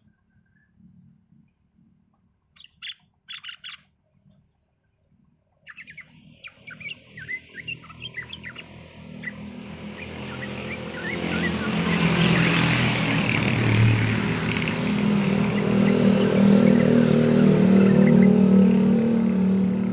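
Short scattered chirps of yellow-vented bulbuls, with a thin steady high tone behind them. From about six seconds in, a motor vehicle's engine comes up and grows louder until it drowns out most of the birds, with chirps still breaking through over it.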